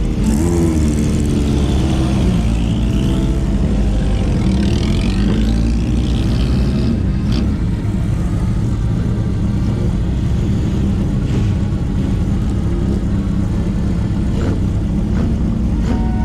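Motorcycle engine and exhaust under way, the pitch rising and falling with throttle changes in the first few seconds, then running at a steady speed.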